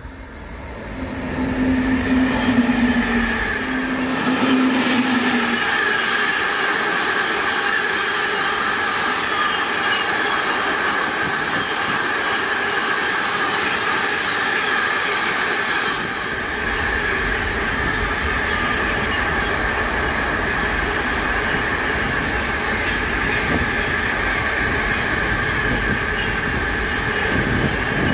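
A train passing close by at speed: two short horn blasts as it approaches, then steady rolling noise of the train going by for over twenty seconds.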